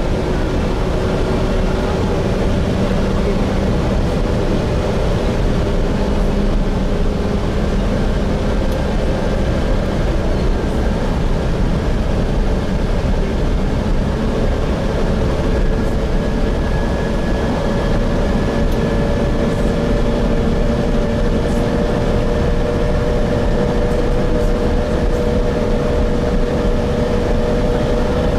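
Inside a moving Gillig Phantom diesel transit bus with a Voith transmission: a steady engine and road rumble, with a whine that rises slowly in pitch as the bus gains speed.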